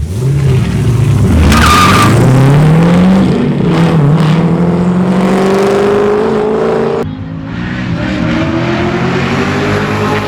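Race cars accelerating hard at full throttle, engines revving up in rising pitch with a gear shift about four seconds in and a brief tire squeal near the start. About seven seconds in the sound switches abruptly to a second, quieter engine climbing in pitch again.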